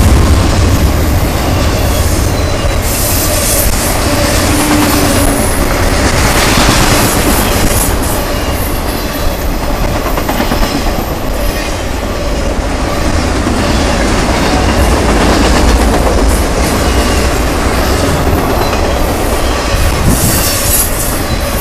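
Cars of a Norfolk Southern intermodal freight train rolling past close by: a loud, steady rumble and clatter of steel wheels on the rails, with some wheel squeal on the curve.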